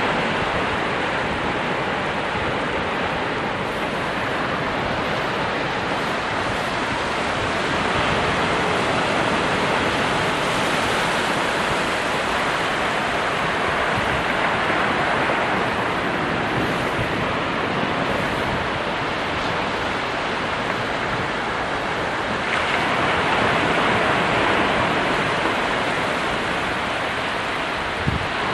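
Ocean waves breaking and washing on a shore in a steady, continuous roar of surf, swelling and easing gently, with one fuller swell near the end.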